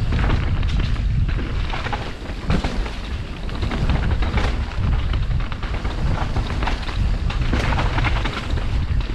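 Downhill mountain bike riding over rough, wet trail: wind buffets the action camera's microphone with a steady rumble, and frequent knocks and rattles come from the bike clattering over bumps.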